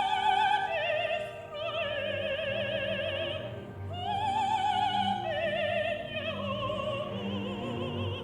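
A contralto singing long, heavily vibrato-laden notes over a full orchestra. Her phrases step downward, with fresh entries about a second and a half in and again about four seconds in.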